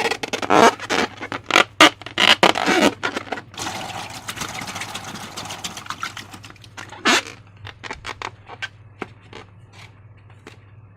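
Slime being squished and worked by hand: a quick run of sticky squelches and small pops, then a steady hiss for a few seconds, one louder squelch about seven seconds in, and scattered faint clicks near the end.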